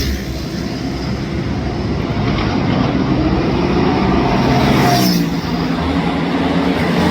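Ducati Panigale V4 superbike's engine and exhaust, its pitch rising and falling as the revs change, with a rise and drop about five seconds in.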